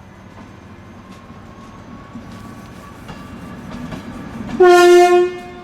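Train horn on a Mark 3 driving van trailer sounding one short, loud single-tone blast about 4.5 seconds in, as the train readies to depart, over the low rumble of an idling diesel locomotive.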